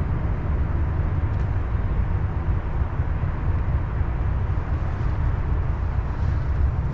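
Freight train rolling past with a steady low rumble of wheels on rail.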